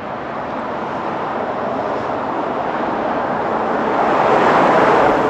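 A road vehicle approaching and passing, its noise swelling steadily and peaking near the end.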